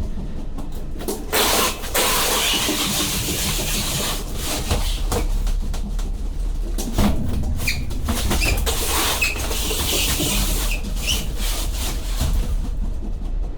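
Cargo-handling noise from boxed refrigerators being moved: knocks, scrapes and several short high squeaks over a steady low rumble.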